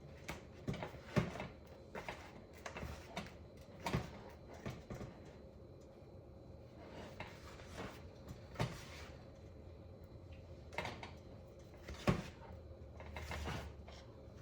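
Irregular light knocks and clatter of kitchen handling, with two louder knocks about a second in and near twelve seconds: a bowl and the fish being handled while the fish is coated in flour.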